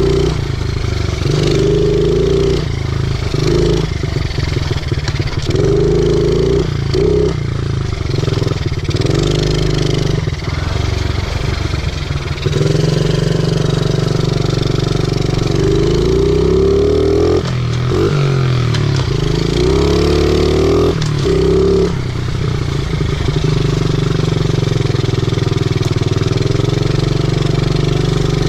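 50cc pit bike engine running under a rider's throttle, its pitch rising and falling over and over as the throttle is opened and let off, holding steadier for the last few seconds.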